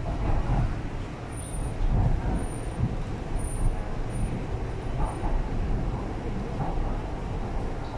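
Inside an MTR East Rail Line R-Train passenger car: steady low rumble of cabin noise.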